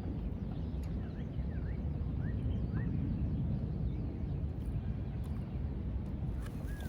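Birds chirping, several short rising and falling calls in the first few seconds and again near the end, over a steady low rumble.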